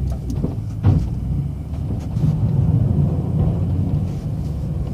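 Plow truck running as its plow blade scrapes salt-softened ice and slush off the pavement, a steady low rumble with one sharp knock about a second in.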